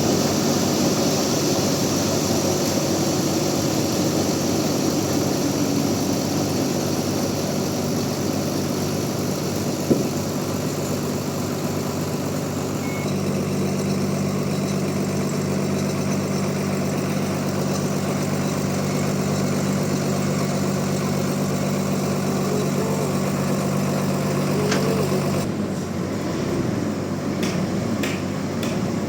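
Band sawmill running through a big rain tree log: a steady machine hum that grows stronger about halfway through and drops away near the end, followed by a few clicks.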